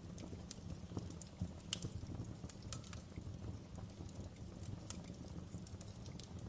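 Wood fire in a fireplace crackling: irregular sharp pops and snaps over a low, steady rumble of the burning.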